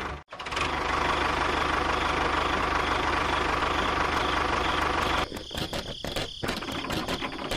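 A small engine running steadily with a fast, even pulse. About five seconds in it turns into irregular chugging with short gaps.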